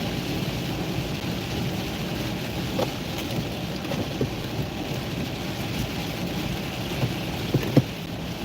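Heavy rain hitting a moving car, heard from inside the cabin over steady road and engine noise, with a few short sharp taps, the loudest near the end.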